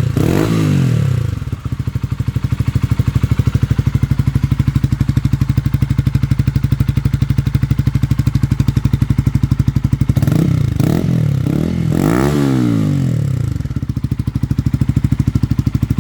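Honda CBR125's single-cylinder four-stroke engine idling steadily through a Scorpion aftermarket exhaust with its baffle fitted, nice and quiet. The throttle is blipped and the revs rise and fall just after the start, then a few more times from about ten seconds in.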